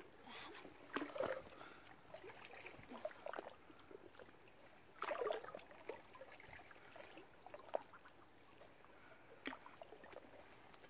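Faint, irregular small water splashes and lapping, with short bursts about a second in and about five seconds in.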